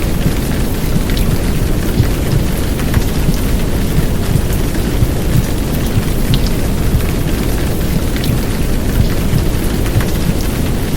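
Heavy downpour rain laid over a deep, steady, muffled womb-sound rumble, with a few sharp drip ticks standing out now and then.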